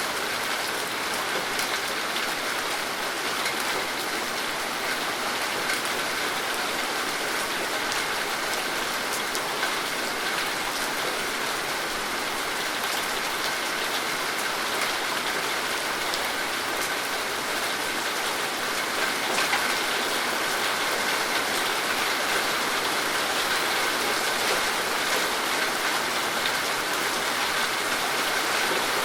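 Steady rain falling and pattering on surfaces, a dense even hiss with many fine drop ticks, swelling slightly about two-thirds of the way through.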